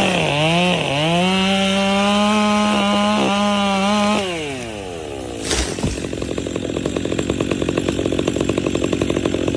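Two-stroke chainsaw revved up to full throttle, dipping briefly twice, then held high for about three seconds before dropping back. A sharp knock comes a little after the middle. The saw then runs at a low, pulsing idle.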